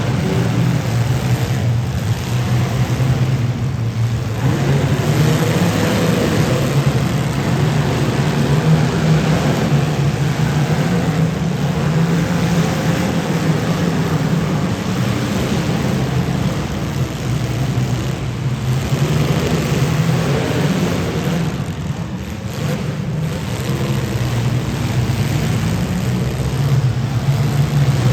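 Demolition derby cars' engines running loud and revving in a continuous drone.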